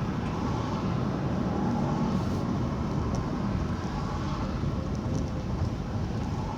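Steady road and engine noise inside a moving car's cabin, a low, even drone.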